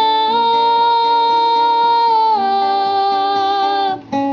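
A singing voice holds one long note over a song's backing music, the pitch stepping down about two seconds in, and the note breaks off about four seconds in.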